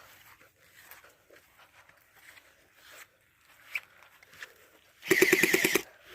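A gel blaster firing one short full-auto burst near the end: a rapid run of about a dozen shots a second over a motor-driven whirr, lasting under a second.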